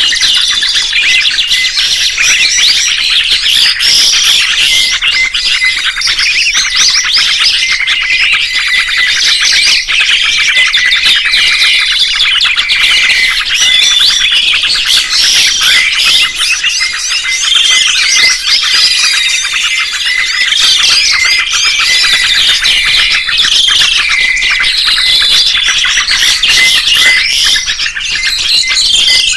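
Songbirds chirping and twittering without pause: rapid high notes and short whistled phrases, overlapping densely.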